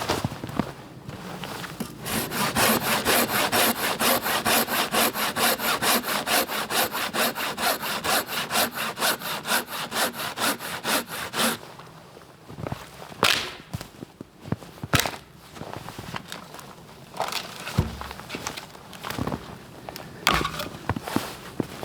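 Hand saw cutting through a piece of firewood with quick, even back-and-forth strokes that stop abruptly about halfway through. Scattered knocks and snaps of wood being handled follow.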